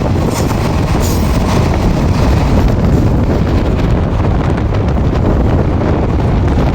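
Train running at speed close by, a heavy steady rumble of wheels on rail, with wind buffeting the microphone.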